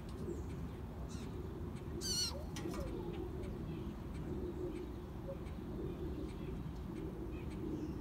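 Wild birds calling: a brief high warbling trill about two seconds in, followed by a short falling call, with low cooing calls over a steady low rumble.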